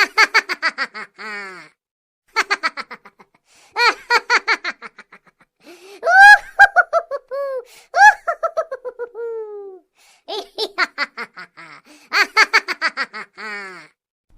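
High-pitched laughter: several bursts of quick ha-ha pulses separated by short silences, with longer squealing laughs that rise and fall in pitch about midway.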